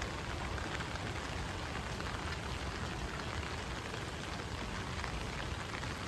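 Steady rain falling, a continuous even patter with no let-up.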